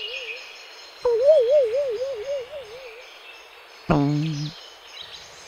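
Comedy sound effects: a click about a second in, then a warbling tone that wobbles up and down about four times a second and fades over two seconds. Near the end comes a short downward sweep that settles into a low buzzing note for half a second.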